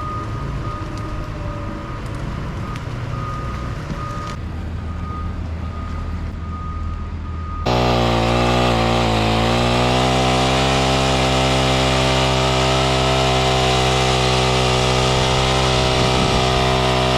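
Engine running, with a steady thin whine over it; about eight seconds in a louder engine takes over, idling steadily after a brief dip in pitch.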